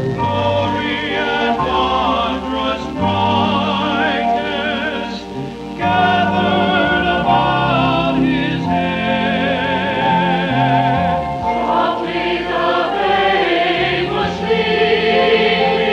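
Church chancel choir singing, many voices with vibrato over steady low sustained notes. The sound thins briefly about five seconds in, then the choir comes back fuller and louder.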